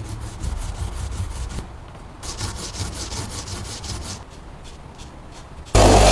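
Rapid back-and-forth hand sanding strokes, several a second, on a part of an old vegetable slicer being restored. Near the end a loud, steady machine noise starts abruptly.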